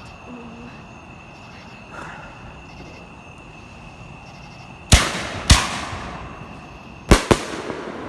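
Fireworks going off: four sharp bangs with short echoing tails, a pair about half a second apart some five seconds in and another close pair near the end.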